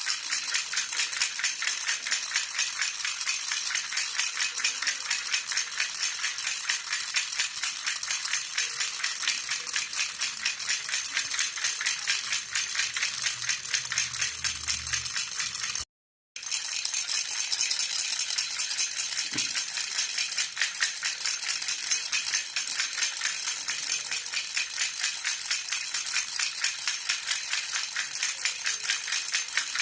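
Jhunjhuna baby rattle shaken continuously in a fast, even jingling rattle, cutting out for a split second about halfway through.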